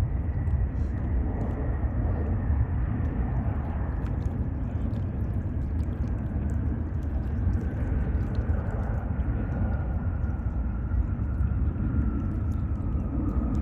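Jet airliner engines passing: a steady heavy rumble with a thin high whine that slowly falls in pitch.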